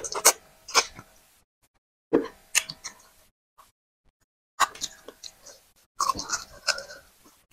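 Close-miked mukbang eating sounds: wet lip smacking and chewing of potato fufu and soup-soaked meat, in four short clusters of sharp smacks separated by silences.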